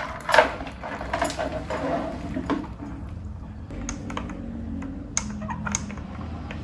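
Irregular light clicks and taps of objects being handled, with a louder knock about half a second in.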